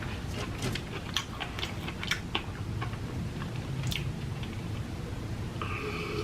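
Close-miked chewing: irregular small wet clicks and crunches from a mouth eating fast food.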